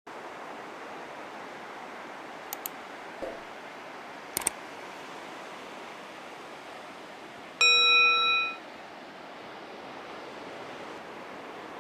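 Steady hiss with a few faint clicks, broken about two-thirds of the way through by a single electronic-sounding tone with several overtones that holds for about a second, then stops.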